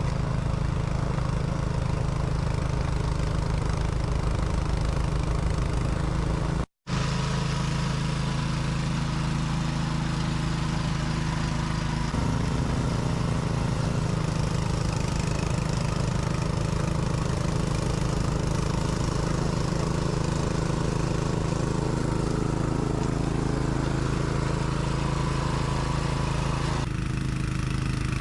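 A motor engine running steadily at an even speed. The sound cuts out for a moment about seven seconds in, then carries on.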